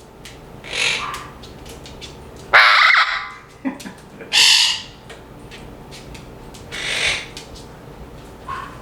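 Pet parrot squawking close to the microphone: four loud calls spaced about two seconds apart, the second the loudest.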